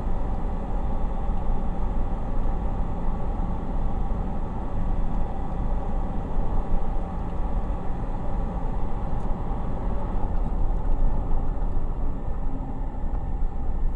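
A car driving, with steady road and engine noise and no sudden impacts.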